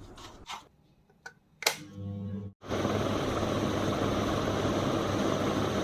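A switch clicks about one and a half seconds in, followed by a short low hum; then, from about halfway through, a ceiling fan runs steadily, an even rush of air over a low motor hum. This is the test run after fitting a new capacitor, the usual cure for a fan that turns slowly.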